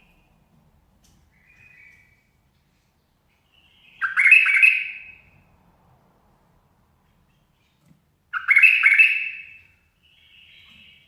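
Bulbul singing: two loud, full phrases about four seconds apart, with a few soft short notes between them.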